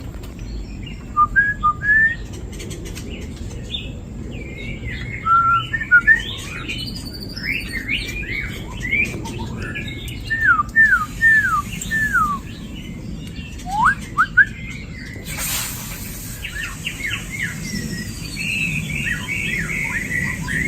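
A pair of young birds calling: short chirps and clear whistled notes that slide downward, some in quick runs. A brief noisy rush comes about fifteen seconds in, and a fast string of repeated notes near the end.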